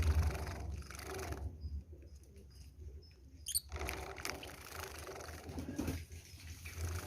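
Java sparrows bathing: bouts of fluttering, splashing noise and a single brief high chirp about three and a half seconds in, over a steady low rumble.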